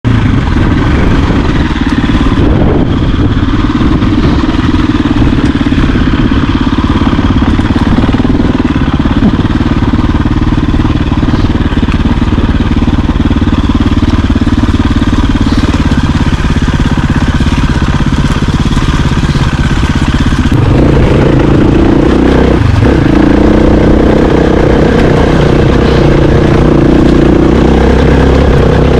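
Off-road dirt bike engine running under way on a trail ride. It holds a steady note, then shifts to a higher, slightly louder note about two-thirds of the way through.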